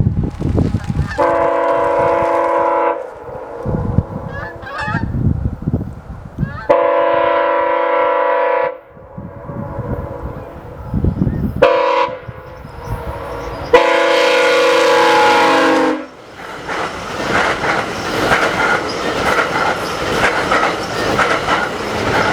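A commuter train's multi-chime air horn sounds the crossing signal: long, long, short, long. The last blast drops in pitch as the train goes by. The train then rolls past with a steady rumble and wheels clattering over the rail joints.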